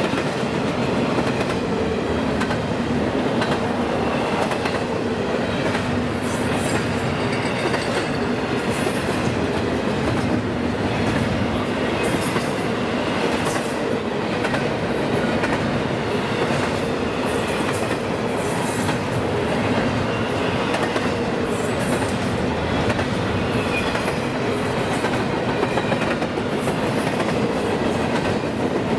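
Train cars rolling steadily past on the track: steel wheels on rail making a continuous rumble and clatter, with faint high wheel squeals now and then.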